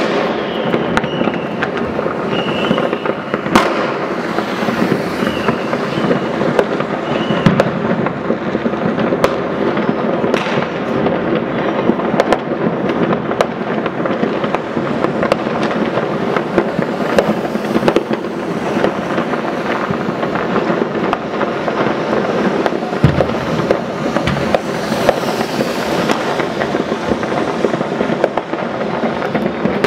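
Fireworks and firecrackers going off all around: a dense, continuous crackle with frequent sharp bangs, heard from behind window glass.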